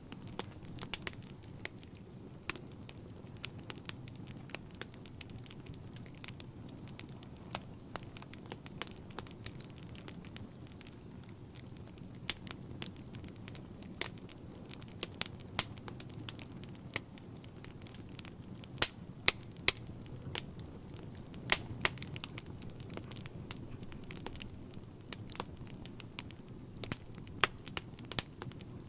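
Wood fire burning in a fireplace: a low steady rumble of flames with irregular crackles and sharp pops of burning logs, a few pops much louder than the rest.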